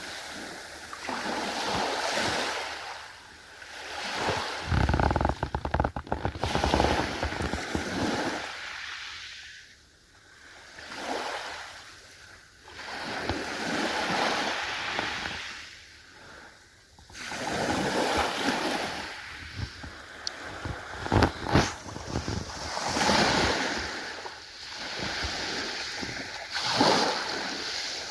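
Ocean waves washing in and breaking, each surge swelling and fading every few seconds, with sharper splashing crackles about five seconds in and again around twenty-one seconds.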